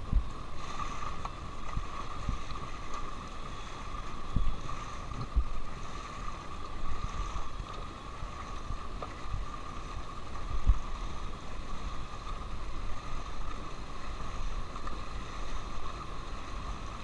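A paddled raft on a fast river: steady rushing water with a low rumble and a few short low thumps.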